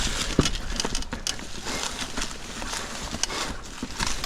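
Mountain bike rolling over a rocky trail: scattered sharp clicks, knocks and rattles from the tyres and bike striking rock, with a sharp knock about half a second in, over low wind rumble on the microphone.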